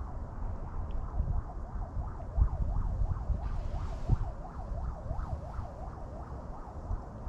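Wind buffeting the microphone with a gusty low rumble, and above it a thin warbling tone that rises and falls about three times a second.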